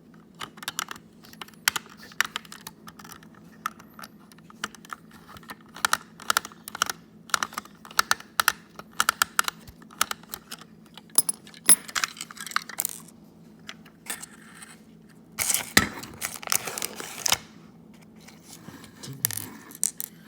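Hands taking apart a plastic Toy State Caterpillar steamroller toy to remove its screws: irregular small clicks, taps and rattles of plastic and metal parts. About fifteen seconds in there is a longer scraping rattle lasting a second or two.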